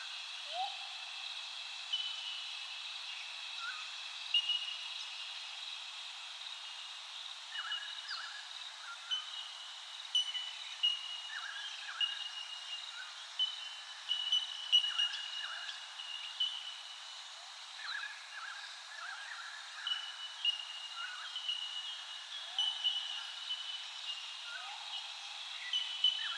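A chorus of wild birds calling, with many short high chirps and whistles repeating over a steady high-pitched background and occasional lower rising calls.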